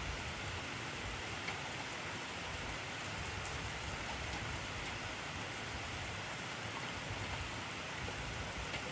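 Heavy rain falling steadily: an even hiss of rain with faint scattered drop ticks.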